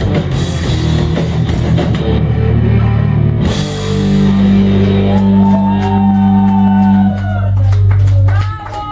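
Punk rock band playing on electric guitars and a drum kit. About three and a half seconds in, the dense playing gives way to long held, ringing chords with bending notes, and near the end the sound falls away as the song closes.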